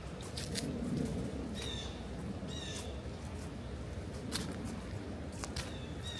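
Short, high bird calls, three of them, over scattered sharp crackles of footsteps on dry autumn leaves.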